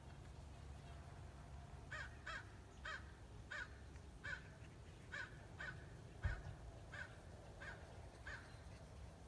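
A bird cawing in an even series of about a dozen short calls, one every half second or so. There is a low thump a little past the middle.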